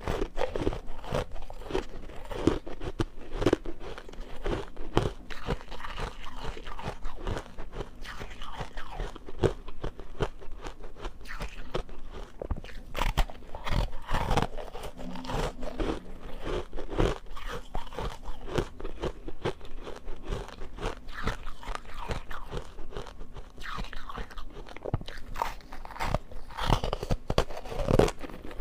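Ice being bitten and chewed close to the microphone: continuous, irregular crunching and crackling as the pieces break up in the mouth.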